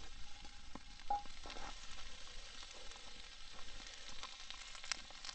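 Strips of steak with bell pepper, onion and jalapeño sizzling in a skillet fresh off campfire coals, with a few light clicks.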